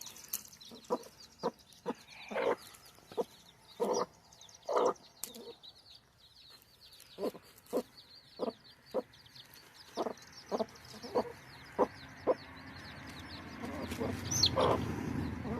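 Mother hen clucking to her brood in short single clucks, one or two a second, with chicks peeping faintly and high above. A low rushing noise builds over the last couple of seconds.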